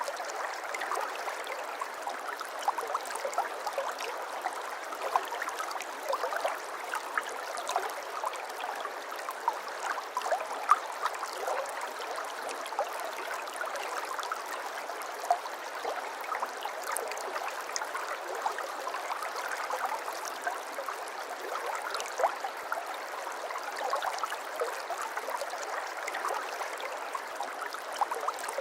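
Stream water flowing and babbling: a steady rush flecked with many small splashes and gurgles.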